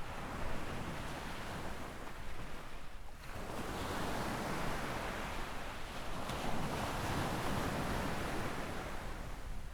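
Sea waves breaking and washing up a sandy beach. The surf dips in a short lull about three seconds in, then swells again and eases off near the end.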